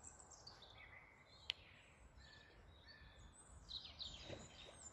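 Faint songbirds chirping and trilling in short phrases, with one sharp click about a second and a half in.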